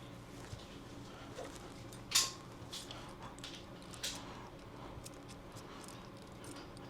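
Handling noises as a pistol is packed into its case: a few light clicks and knocks, the loudest a sharp click about two seconds in.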